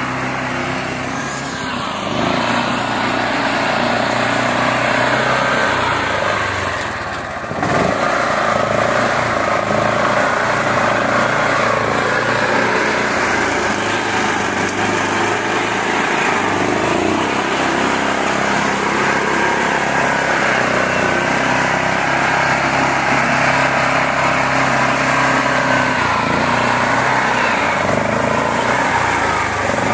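Mini tractor's engine running steadily, with a brief drop in level about seven seconds in.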